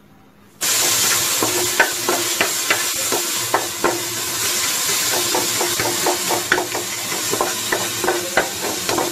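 Ginger-garlic paste frying with onions in hot oil and ghee, sizzling steadily, while a wooden spatula stirs it and scrapes and knocks against the metal pot in many short clicks. The sizzle starts suddenly just under a second in and cuts off abruptly at the end.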